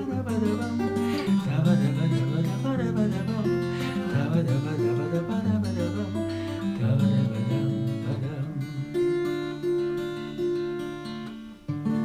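Acoustic guitar playing the song's closing instrumental bars: strummed and picked chords, then a final chord struck just before the end and left ringing.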